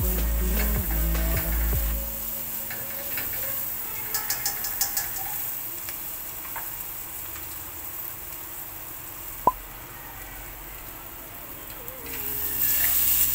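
Chopped garlic and onion sizzling in hot oil in a stainless steel pot, with a quick run of clicks about four seconds in and a single short, sharp ping past the middle. Background music plays at the start and comes back near the end.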